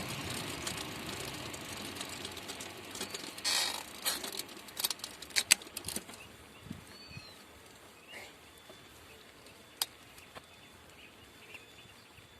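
Bicycle riding noise that fades away over the first few seconds, then a run of sharp clicks and knocks about four to six seconds in, after which it is quiet apart from a few faint ticks.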